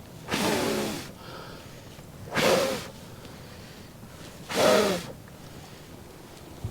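A person blowing hard on a struggling campfire to get it to catch: three strong puffs of breath, about two seconds apart.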